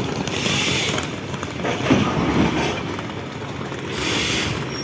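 Train on the rails at a station, with a steady rumble and two short hissing bursts, one near the start and one near the end.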